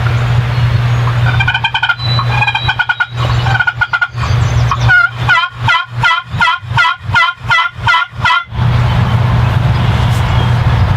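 Turkey yelping: a few short soft notes, then a steady run of about ten yelps at roughly three a second. A steady low rumble runs under it before and after the calling.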